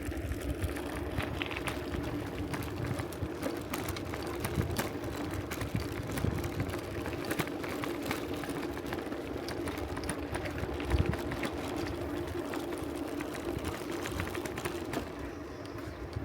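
Bicycle rolling on a rough, potholed road: a steady rattling and clicking over a constant low hum.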